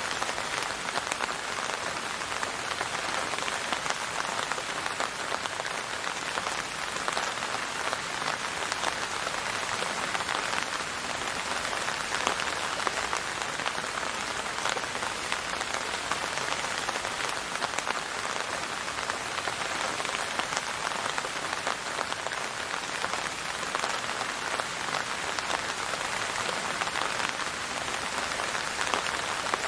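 Steady heavy rain falling on a surface, a dense even patter of drops.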